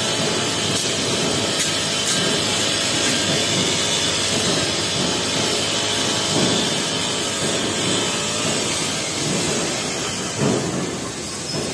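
Honda four-stroke brush cutter running steadily at working speed with a metal blade, cutting tall grass; the level eases slightly near the end.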